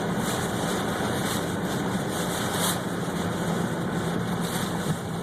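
A car running, heard from inside the cabin: a steady low engine hum under a hiss of road and wind noise that swells and fades.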